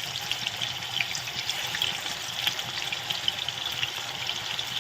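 Paneer cubes frying in hot oil: a steady sizzle with frequent small crackles and pops.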